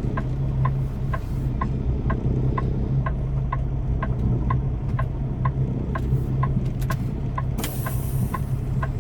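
Semi-truck diesel engine running at low revs, heard from inside the cab, with a flasher relay clicking steadily about two to three times a second. Near the end comes a short hiss of air, typical of the truck's air brakes being set.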